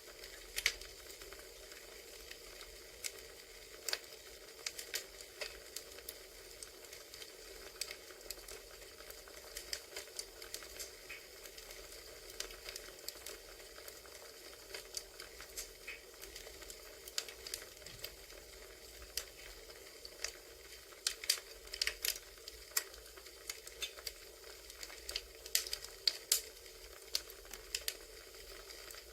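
Campfire crackling: wood fire ambience with a steady soft hiss and irregular sharp pops and snaps, busier in a couple of clusters in the second half.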